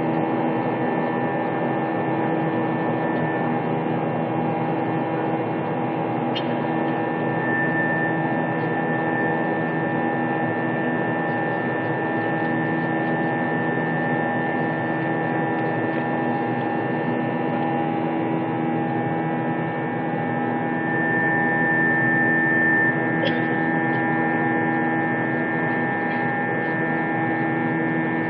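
Steady drone of an airliner's engines heard inside the cabin during the climb after take-off: a constant hum made of several held tones over a noise bed, swelling slightly about three-quarters of the way through.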